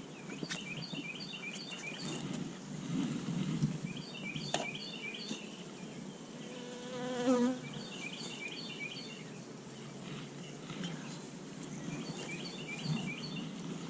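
Honeybees buzzing around an open hive. About seven seconds in, a louder buzz swells and fades as a bee passes close.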